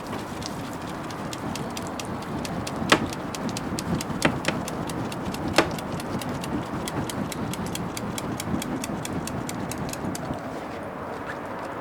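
Wood bonfire crackling steadily, with three louder pops in the first half.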